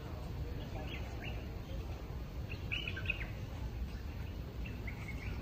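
Birds chirping in the trees: a few short scattered chirps over a low steady background rumble.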